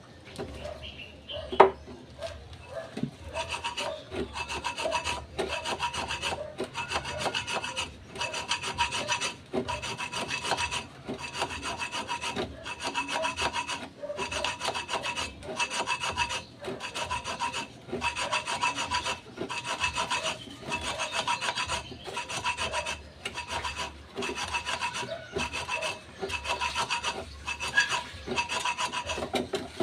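A sharp metallic knock, then steady back-and-forth rasping strokes of a hand tool scraping a steel brake drum, about one and a half strokes a second. The drum rings faintly with each stroke. This is hand-finishing of the drum's braking surface.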